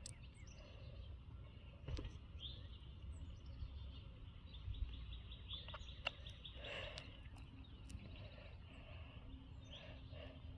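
Small birds chirping and trilling in quick repeated high notes over a low rumble of wind on the microphone, with a few brief clicks.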